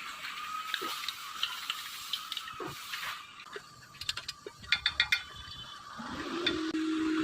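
Metal tool clicks and clatter, densest about four to five seconds in, then a steady low hum that starts about six seconds in.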